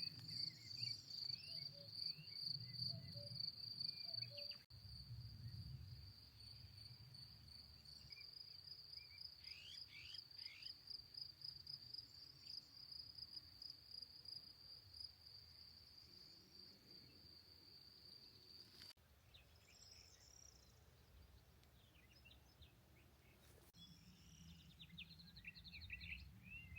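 Faint outdoor ambience: a cricket chirping steadily at a high pitch, stopping about two-thirds of the way through. A few short bird chirps come and go over a low rumble.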